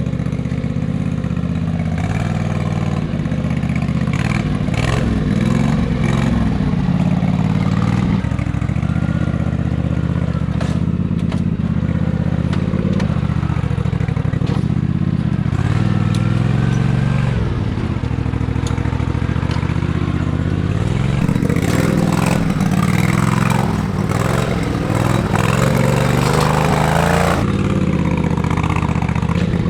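Engine of a modified off-road lawn tractor running hard, its pitch rising and falling repeatedly as the throttle changes, with some clatter.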